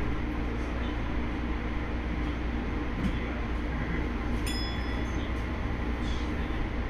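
Electric commuter train on the JR Sagami Line running steadily, heard from inside just behind the driver's cab as it pulls away from the station, with a brief faint high squeal about four and a half seconds in.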